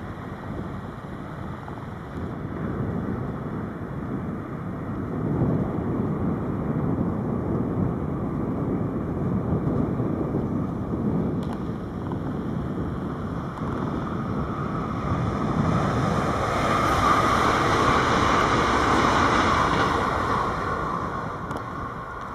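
NS Sprinter Light Train (SLT) electric multiple unit running past on the track. A low rumble of wheels on the rails swells into a loud rushing hiss in the second half, which fades away near the end.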